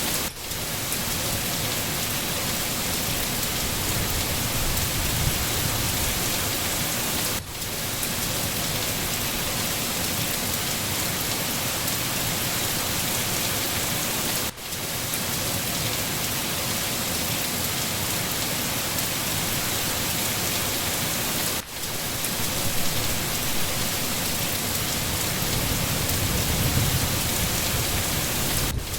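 Steady heavy rain, an even hiss across the whole range, with a brief dip in level about every seven seconds. A low rumble swells in the last few seconds.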